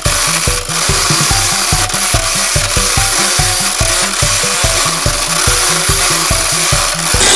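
Power saw cutting through wood, a steady whirring rasp that starts at once and grows louder near the end. Background music with a steady beat plays underneath.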